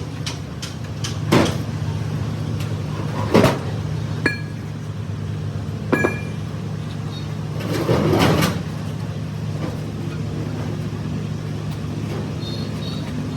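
Workshop noise: a steady low mechanical hum, with a handful of metal clanks and clinks, two of them ringing briefly, and a longer scraping clatter about eight seconds in.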